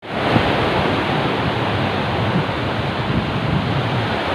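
Rough sea waves and surf with wind buffeting the microphone, a steady rushing noise.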